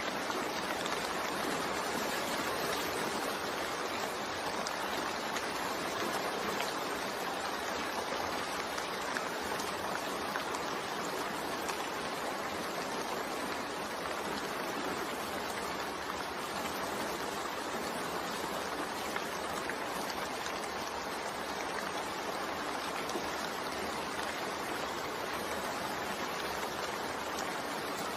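Continuous rain mixed with white noise: an even, steady hiss with no breaks or changes.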